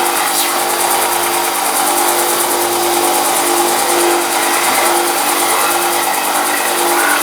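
Power tool motor running steadily at constant speed, a steady hum with a broad grinding hiss over it.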